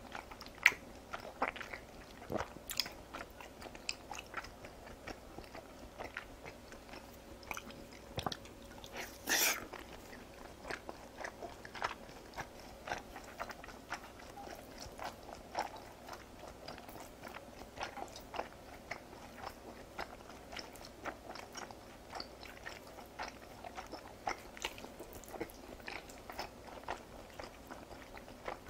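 Close-miked chewing of raw beef slices: soft, wet mouth clicks scattered throughout, with one louder, longer noise about nine seconds in.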